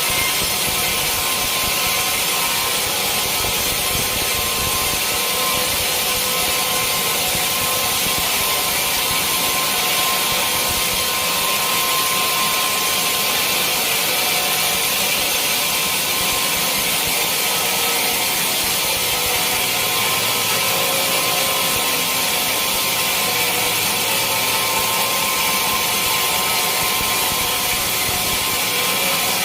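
Sawmill saw running steadily: an unbroken hissing noise with a faint constant whine.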